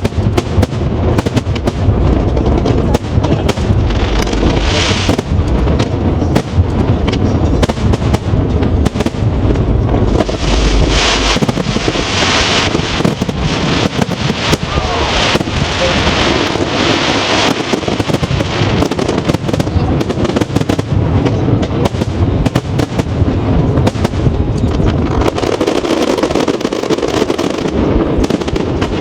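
Aerial fireworks bursting in rapid, overlapping succession: a steady barrage of booms and bangs, with a dense stretch of crackling shells about a third of the way in.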